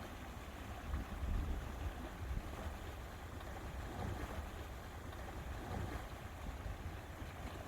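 Wind buffeting the microphone in uneven low gusts, over a soft wash of lake water lapping.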